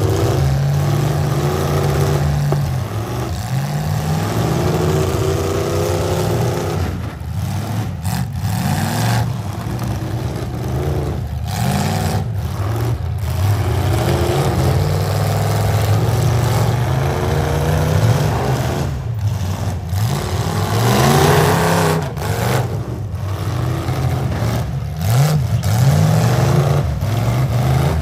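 Several full-size V8 demolition derby car engines running and revving, their pitch rising and falling over and over as the cars drive and ram.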